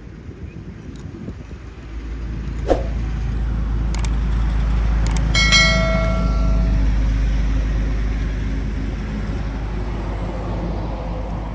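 Heavy truck driving past on a highway: a deep engine and tyre rumble swells about two seconds in, peaks near the middle and slowly fades. A short high-pitched ringing tone sounds at the loudest point.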